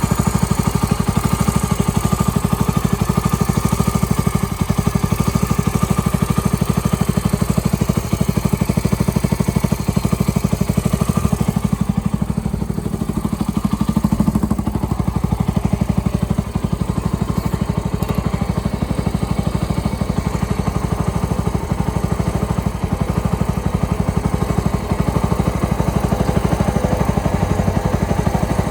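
Suzuki Grasstracker Big Boy's single-cylinder four-stroke engine idling steadily, with a brief dip and swell in its note about halfway through.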